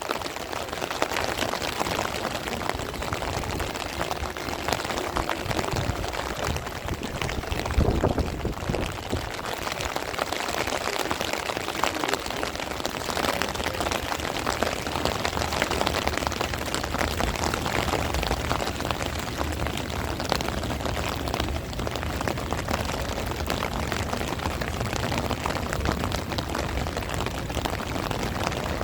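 Heavy rain falling steadily in a dense patter of drops, with wind gusting low against the microphone, loudest about eight seconds in.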